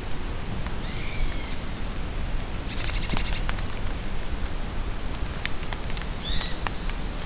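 Steady rain with scattered drops tapping nearby, while forest birds sing short phrases: a warbling call about a second in, a fast high trill around three seconds, and another brief call near the end.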